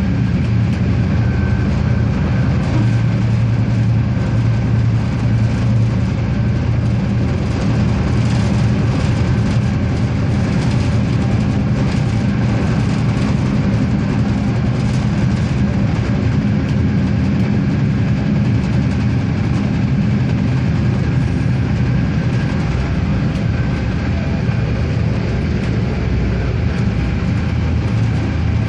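RegioSprinter diesel railcar running along the line: a steady engine drone with wheel and rail noise.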